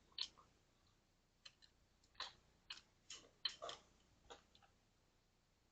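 Faint, irregular clicks and light taps, about eight of them spread over a few seconds, from small objects being handled.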